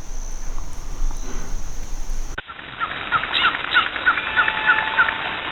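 A songbird calling a quick run of about eight short, evenly spaced chirps, after a sudden change from a steady background hiss.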